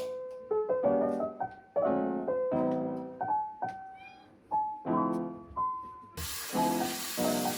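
Background piano music, a soft melody over struck chords. About six seconds in, a loud hiss cuts in for about a second.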